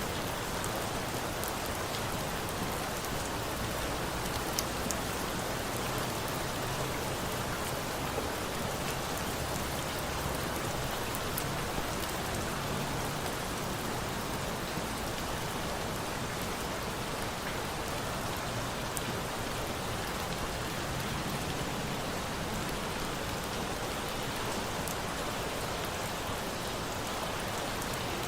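Steady rain falling, an even hiss of drops with a few faint ticks and pops scattered through it, layered with a campfire for sound masking.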